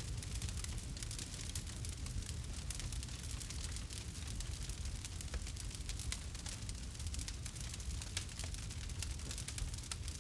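Campfire burning: wood crackling with many small pops, over a low steady rumble.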